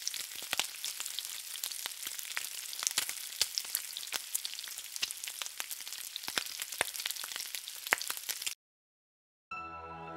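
Food frying in hot oil: a steady sizzle full of sharp crackles and pops, which cuts off abruptly about a second before the end. Soft background music begins near the end.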